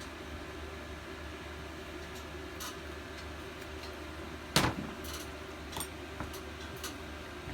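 Light clicks and knocks from engine parts and hand tools being handled, the loudest a single sharp knock about four and a half seconds in, over a steady low hum.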